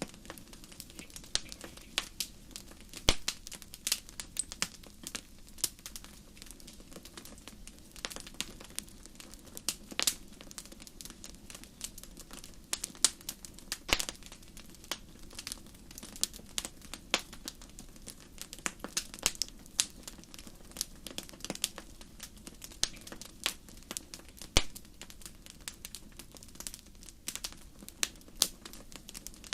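Wood fire burning in a fireplace, crackling with irregular sharp pops and snaps over a low steady hiss; a few pops stand out louder than the rest.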